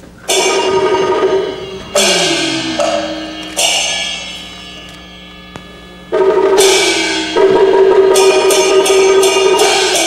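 Chinese opera percussion: struck gongs and cymbals ring out in three separate hits, one gong's pitch falling as it rings. From about six seconds in comes a loud, fast run of gong and cymbal strikes.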